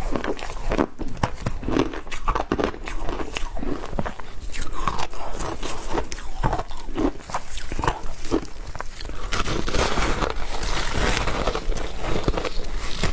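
Close-up crunching and chewing of frozen matcha green tea ice: a run of sharp, crisp crunches, becoming a denser, continuous crackle near the end.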